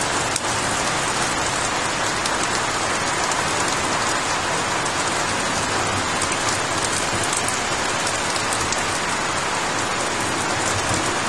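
Torrential tropical downpour: very heavy, steady rain with large drops pelting down, a dense, even hiss dotted with fine drop ticks.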